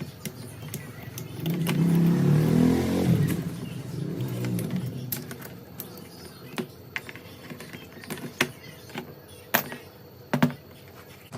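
Small metal parts and tools clicking and clinking as they are handled, with a brief louder hum about two seconds in.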